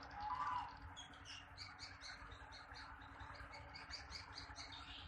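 Edible-nest swiftlets twittering: a steady run of many short, high chirps. A brief louder sound comes about half a second in.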